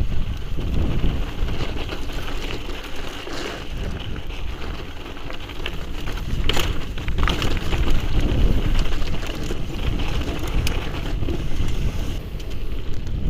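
Mountain bike ridden along a rough trail: wind buffeting the microphone over the rolling of tyres on dirt and rock, with a few sharp knocks about halfway through.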